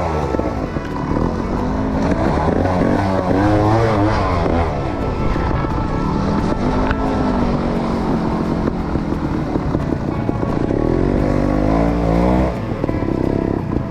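Trials motorbike engine revved in short throttle blips, its pitch rising and falling again and again as the bike picks its way over rocks, with a steadier run in the middle and a drop in revs near the end.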